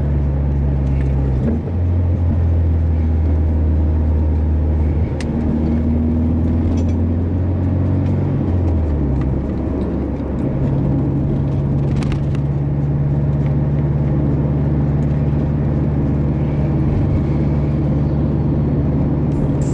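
Subaru Legacy's horizontally opposed engine and tyre noise heard inside the cabin with the windows up while cruising slowly: a steady low drone whose pitch shifts about a second and a half in and again around eight to ten seconds in.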